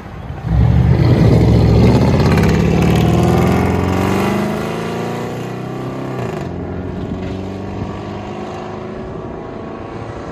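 Straight-piped 5.7-litre HEMI V8 with a true dual exhaust and its mufflers and resonators deleted, revved hard about half a second in, then falling back to a steady idle about halfway through.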